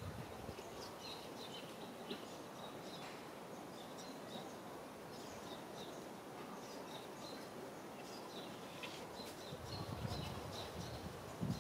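Outdoor ambience with small birds chirping: short, high chirps repeating again and again over a steady background hiss. A few low thumps and rumbles come near the end.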